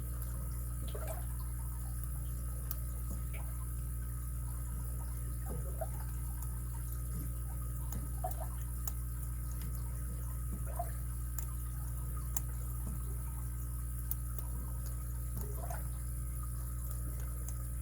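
Faint, scattered clicks and light scrapes of lock picks working inside a padlock's keyway, over a steady low hum.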